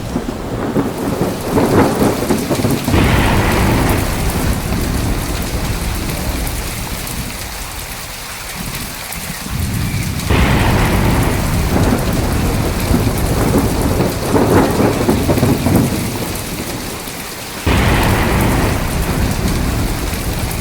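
Thunderstorm: heavy rain falling steadily, with loud rolls of thunder that rumble for several seconds at a time. One starts about two seconds in, another breaks in sharply about ten seconds in, and a third about eighteen seconds in.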